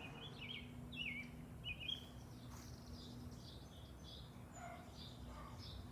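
Birds chirping faintly outdoors, with a run of quick, short notes in the first two seconds and scattered calls after, over a faint steady hum.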